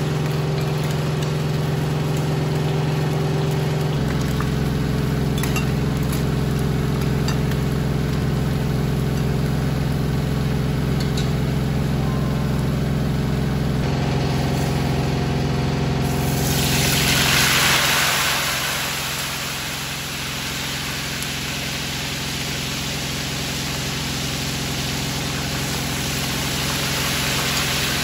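Kitchen range hood fan running with a steady hum, with a few light clinks of a spatula on the wok. About two-thirds of the way through, food goes into hot oil and a loud sizzle breaks out, settling into the steady hiss and bubbling of deep-frying.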